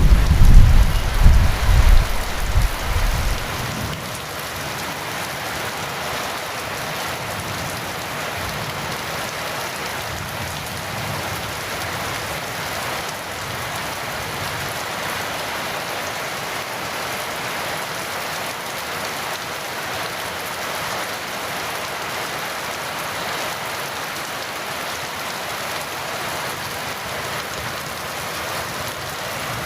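Heavy rain falling steadily. A deep thunder rumble dies away in the first three to four seconds.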